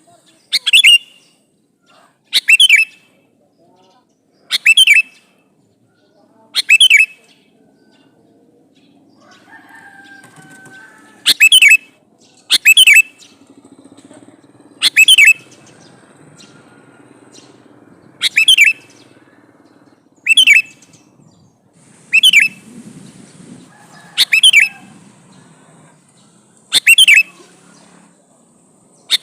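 Male sooty-headed bulbul (kutilang) giving its call to a female: a short, sharp call repeated about every two seconds, sometimes in quick pairs.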